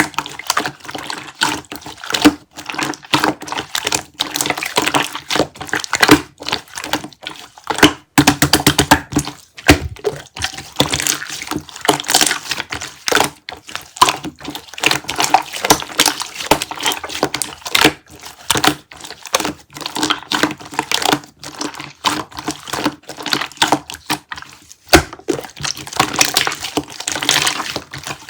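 A dense, irregular run of wet clicks and crackles close to the microphone.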